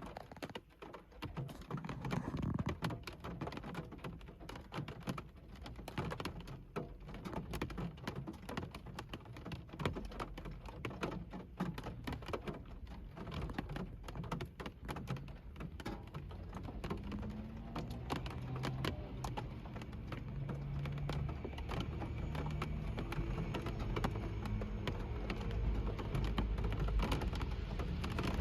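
Raindrops pattering on a car's roof and glass, heard from inside the car as many irregular sharp taps over a hiss of rain. A low rumble joins in during the second half and grows louder toward the end.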